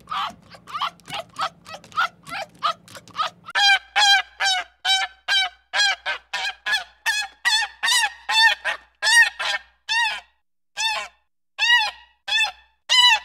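A fast series of short animal calls over a low hum, then, from about three and a half seconds in, a waterfowl honking over and over, about two honks a second, each rising and falling in pitch, the gaps widening near the end.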